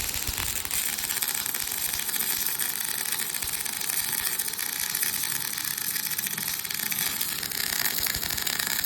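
Gas-shielded welding arc burning steadily: a continuous crackling hiss.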